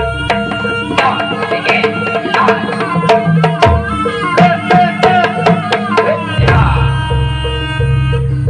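Jaranan ensemble music: rapid hand-drum strokes over a sustained, wavering melodic line.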